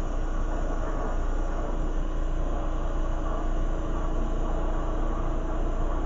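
Lampworking torch flame running with a steady rush and a constant low hum beneath it, as green glass rod is worked in the flame.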